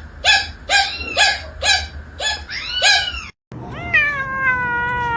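A cat meowing in quick short calls, about two a second; then, after a cut, one long drawn-out meow that falls slowly in pitch.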